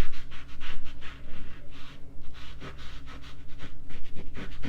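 Paper towel rubbing and scraping pan pastel off drawing paper in quick back-and-forth strokes, several a second, lifting away the unwanted colour.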